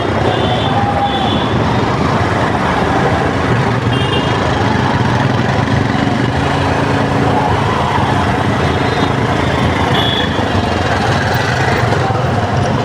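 Road traffic noise in a jam: vehicle engines running steadily, with short horn toots at the start, again about four seconds in and near ten seconds in.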